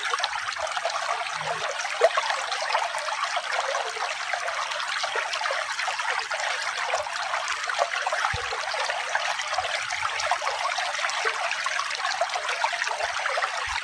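Running water trickling and splashing steadily, like a small stream: an even, bright babble with very little low rumble.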